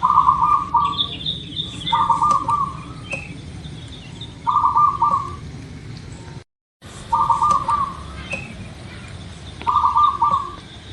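Zebra dove (perkutut) cooing: five short, trilled coo phrases about two to three seconds apart, with fainter, higher chirps of other small birds between them. The sound cuts out completely for a moment near the middle.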